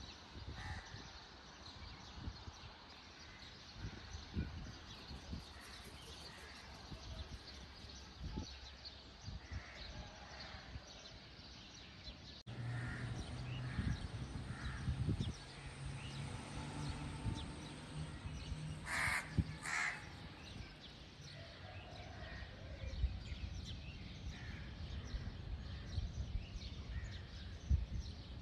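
Birds calling outdoors, with two loud caws close together about two-thirds of the way in, over a low rumble. A low steady hum runs for a few seconds in the middle.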